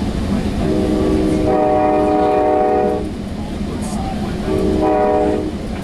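Commuter train's horn sounding a multi-note chord in two blasts over the low rumble of the moving train: a long blast that swells about a second in, then a shorter one near the end.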